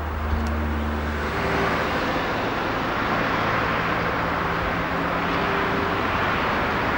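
Diesel train engine running with a steady low hum, its note changing about a second in, while a broad rushing noise builds.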